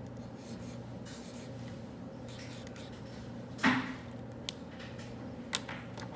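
Quiet study-room ambience: a steady low hum with light scratching of writing on paper. A single sharp knock a little past halfway is the loudest sound, and two faint clicks follow.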